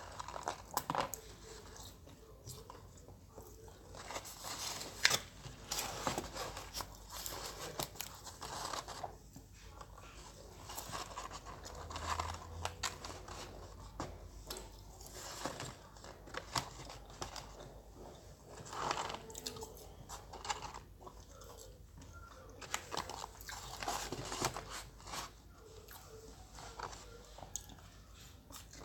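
A person chewing McDonald's french fries close to the microphone, with irregular crunches and sharp mouth clicks.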